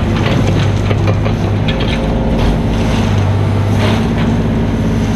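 Mini excavator's diesel engine running steadily under work, with a few short scrapes and knocks over it.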